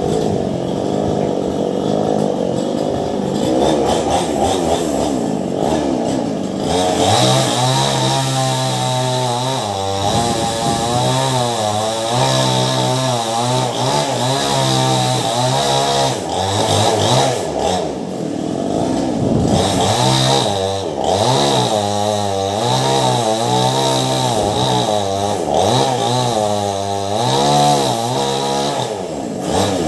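Ryu chainsaw fitted with a STIHL chain cutting into a large mango trunk: the engine runs at high revs, its pitch dipping and recovering over and over as it labours under the load of the cut, and the cutting sound grows stronger about seven seconds in.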